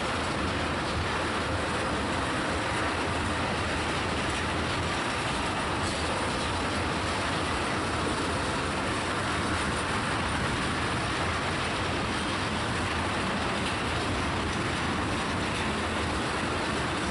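Tank cars of a freight train rolling past: a steady noise of steel wheels running on the rails.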